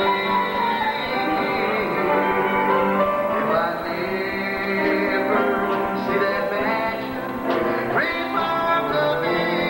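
Gospel group singing with instrumental accompaniment, male voices to the fore.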